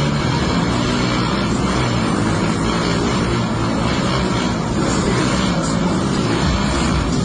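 Motorcycle running at speed, a steady engine drone that holds an even level throughout.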